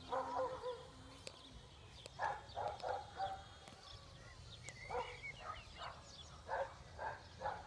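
Distant animal calls, short bursts repeated in two runs of several each, over a low wind rumble on the microphone.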